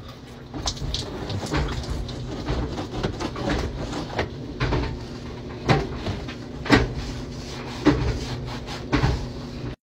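Hand-washing with a bucket of soapy water: water splashing and dripping over irregular scrubbing, with sharper knocks about once a second in the second half.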